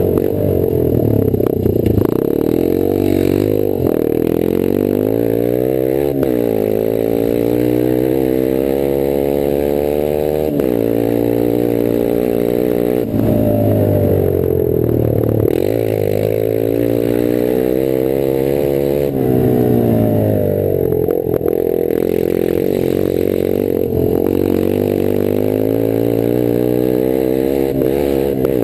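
Rieju Marathon 125 AC's air-cooled single-cylinder four-stroke engine, run through an open exhaust with no silencer, under load on a dirt track. The engine note climbs through each gear and falls back sharply at the shifts and throttle lifts, again and again.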